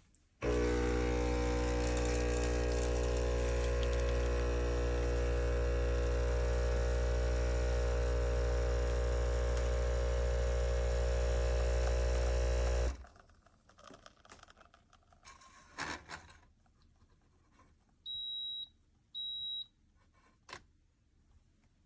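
Neretva 20-bar espresso machine's pump buzzing steadily for about twelve seconds while pulling a one-cup shot, then cutting off. A few faint knocks follow, and near the end the machine gives two short high beeps.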